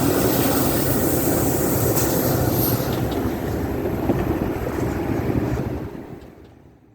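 Train passing with a steady rumble and rail noise, fading away near the end.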